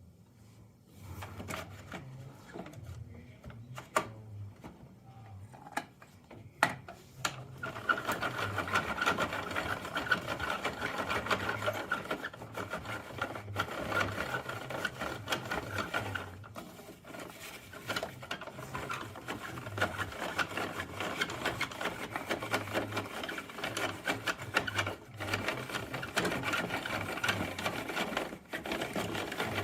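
Plastic toy garbage truck being handled, with scattered clicks and knocks, then a steady mechanical rattling whir from about seven seconds in.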